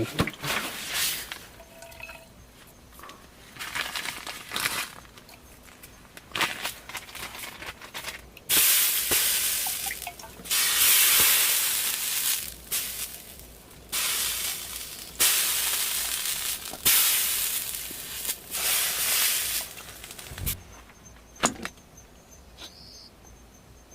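Salt water splashed onto a hot upturned kadhai, hissing and sizzling in repeated bursts of a second or two as it flashes to steam: the inverted wok is being made non-stick for rumali roti.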